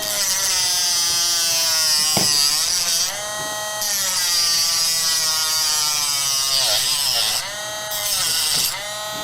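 Small hand-held power tool's electric motor whirring in several runs, its pitch sagging and recovering as it bites into the material. It cuts out briefly about three seconds in and again twice near the end.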